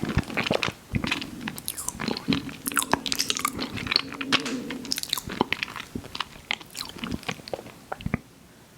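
Close-miked chewing of an ice cream sandwich: many wet mouth clicks and smacks with soft crunching, which stop about eight seconds in.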